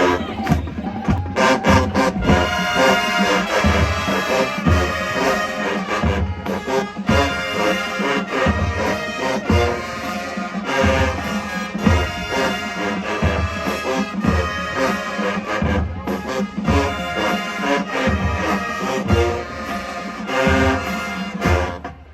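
A high school marching band playing, its brass section carrying the tune over a steady beat of low bass drum hits.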